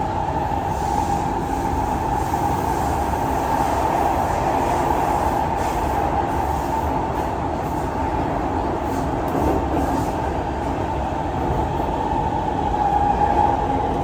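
Kawasaki–Kinki Sharyo C151 metro train running in a tunnel, heard from inside the car: a loud, steady rumble of wheels on rail with a constant high whine over it.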